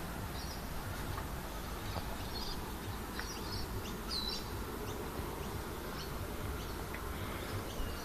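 Birds chirping faintly in short, high chirps at irregular intervals, over a steady low rumble.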